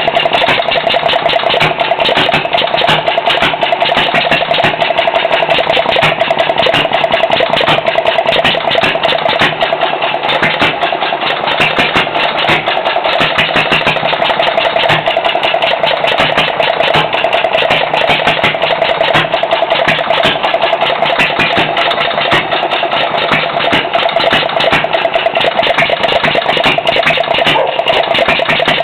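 Lauson LA small gas engine running steadily with a rapid, even beat of firing strokes and no pauses. It was put back together from parts of other engines and set up to run hit-and-miss off its cam-driven governor, and runs fairly well though it still needs tweaking.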